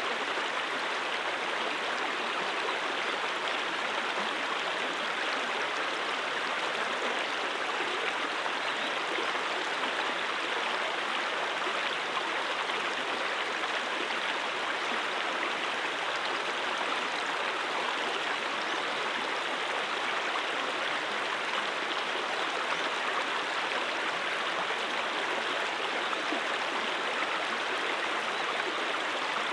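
A stream of water flowing and babbling in a steady, even rush with no breaks.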